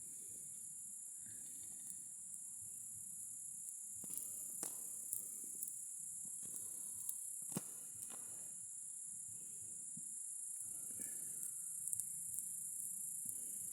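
Steady high-pitched chorus of insects, crickets or cicadas, with a few faint clicks and knocks scattered through it.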